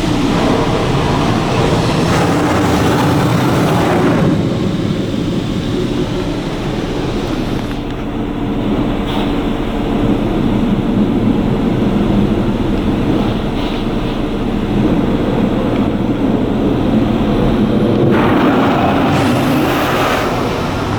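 High-pressure rinse jets of a touchless automatic car wash spraying against a pickup's body, heard from inside the cab as a loud, steady rush of water under a low machine hum. The hiss dulls for a stretch in the middle and grows strong again near the end as the spray moves across the truck.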